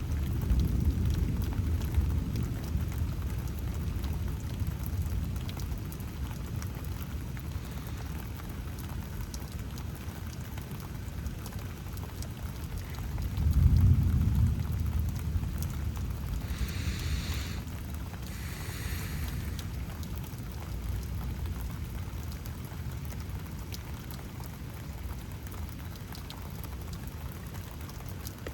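Steady rain falling, with low rolling thunder that fades over the first few seconds and swells again briefly about halfway through. Two short hisses come a few seconds after the swell.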